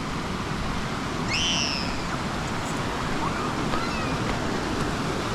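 Steady rush of water spilling out through the lake's overflow. About a second in, a bird gives one clear call that rises and then falls, followed by a few faint chirps.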